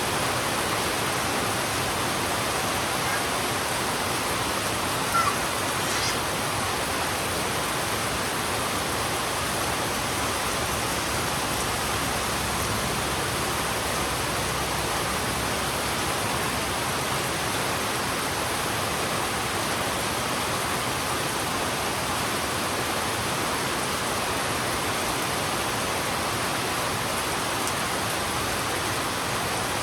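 Heavy rain falling steadily, an even hiss with no let-up, with one brief small click about five seconds in.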